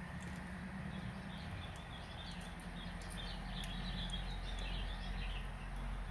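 Bird chirping: a rapid twittering run of high chirps from about a second in until near the end, over a steady low hum.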